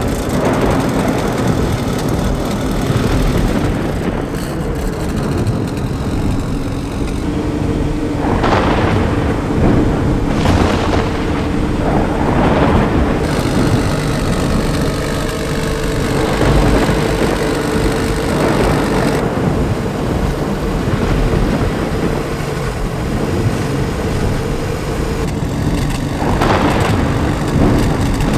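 Turbocharged B18C1 four-cylinder in a Honda Civic running with a loud, rumbling exhaust, revved briefly a few times: three quick revs in the first half and one more near the end.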